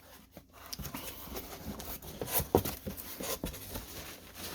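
A cardboard shipping box being opened and handled: irregular rustling and scraping with scattered knocks, the sharpest about two and a half seconds in.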